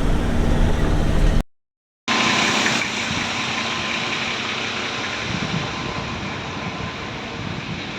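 An old truck's engine running steadily. About a second and a half in it cuts off abruptly to dead silence, and after that comes a steady rushing noise with a faint thin whine in it, slowly fading.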